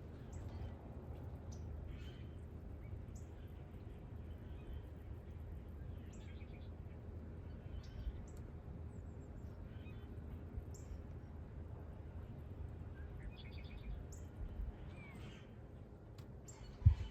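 Small birds chirping, short high calls every second or so, over a steady low rumble. A sharp knock just before the end.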